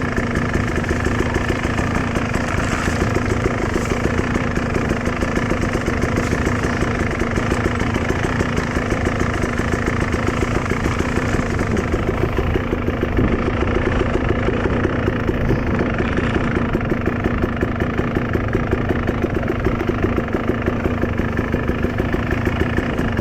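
Dirt bike engine idling steadily, its pitch holding level with no revving.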